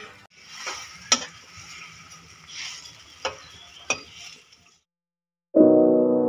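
Vegetables sizzling in a wok over a wood fire while a spatula stirs them, knocking sharply against the pan three times. Piano music comes in near the end.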